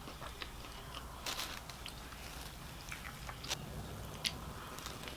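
A person chewing and biting a fried chicken sandwich: soft, irregular mouth clicks and small crunches, a few slightly louder bites.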